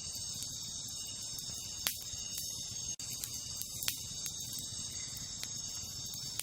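Wood fire crackling, with a few sharp pops standing out about two and four seconds in, over a steady high-pitched insect chorus of a tropical night.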